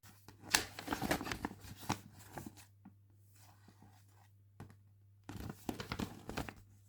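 Toy packaging being torn open and crinkled by hand, in two bursts: a longer one near the start and a shorter one near the end.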